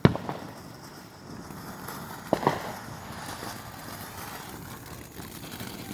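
Consumer firework going off: a sharp bang right at the start, then a quick pair of pops about two and a half seconds in.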